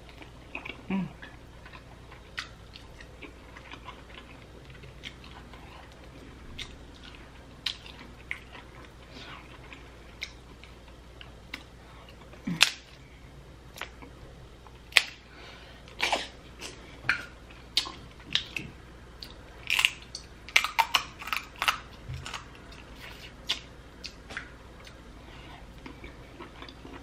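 Close-miked chewing of snow crab and broccoli: scattered wet mouth clicks and smacks, coming more often in the second half.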